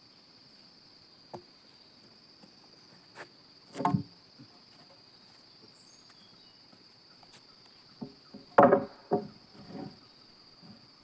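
Steady high drone of insects, broken by scattered wooden knocks and thumps. The loudest come about four seconds in and in a cluster of several near nine seconds, as of sawn timber being handled.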